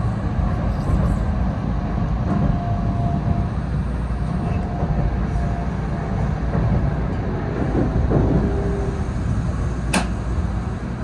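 Shinkansen bullet train running, heard from inside the passenger car: a steady low rumble and rushing noise, with one sharp click near the end.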